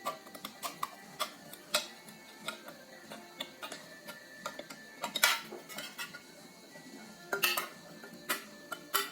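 Irregular light metallic clicks and clinks, roughly every half second, from small metal parts of an antique hand drill being handled, with a few louder knocks about five seconds in and again near the end. Faint background music underneath.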